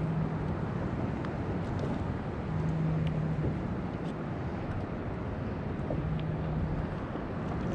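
Wind rumbling on the microphone over open-sea water noise around a kayak. A low steady hum comes in briefly about every three seconds.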